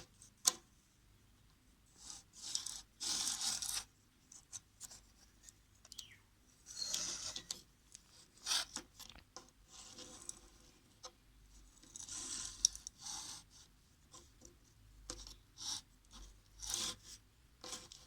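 Hands handling a small object: faint, scattered bouts of rubbing and scraping, with sharp clicks about half a second in.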